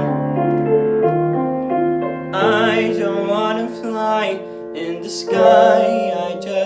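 Piano playing slow sustained chords, with a singer holding long notes with vibrato from about two seconds in and again near the end.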